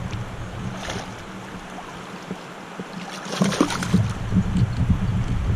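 Water splashing and sloshing at a kayak in two short bursts, about a second in and again around three and a half seconds in, with wind rumbling on the microphone that grows louder in the second half.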